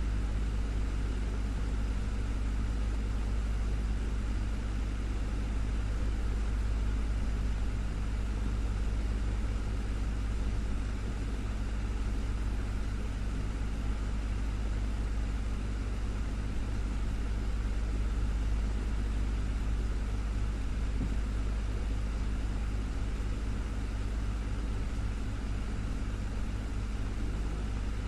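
Desktop fan running steadily: a constant low hum and rumble under an even rush of air.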